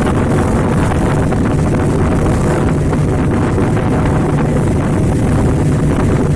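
Small boat's motor running steadily while under way, with wind buffeting the microphone.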